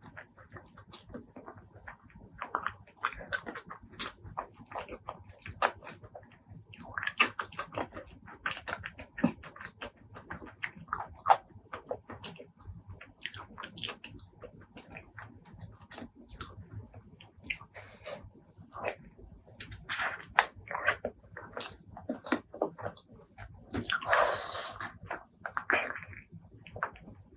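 Close-miked eating of spicy pork leg curry and rice: chewing with wet mouth smacks and clicks at irregular intervals. Near the end comes a longer, denser wet burst lasting about a second.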